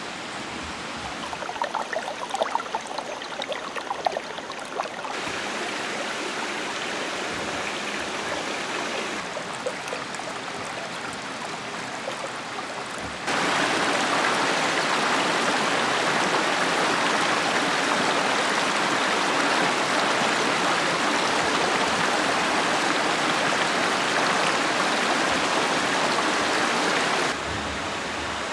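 Mountain valley stream running over rocks, heard as a steady rush of water that jumps louder about halfway through and drops back near the end as the shots change. A few sharp clicks sound in the first few seconds.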